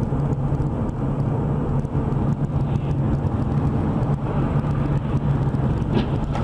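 A car driving along: steady engine and road noise with a low, even drone, heard from inside the car.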